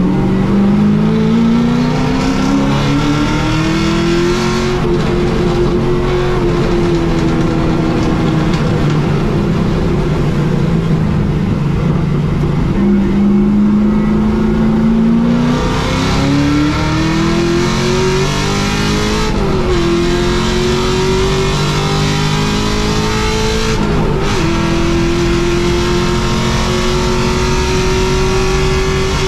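Holden VY Commodore race car's engine heard from inside the cabin, pulling hard with its pitch climbing, easing off once for a corner, then accelerating again through two quick upshifts and holding high revs.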